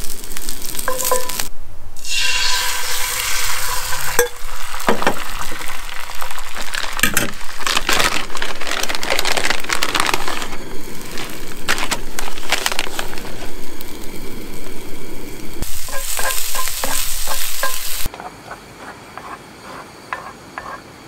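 Scrambled eggs frying in sausage grease in a cast-iron skillet, a loud steady sizzle with the scraping of a wooden spatula stirring them. About eighteen seconds in the sizzle drops to a much quieter level.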